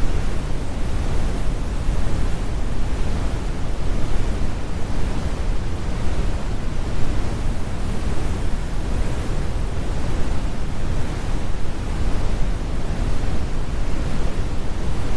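Steady, computer-generated brown noise: an even, deep rumble, strongest in the bass and fading toward the treble, with no high hiss.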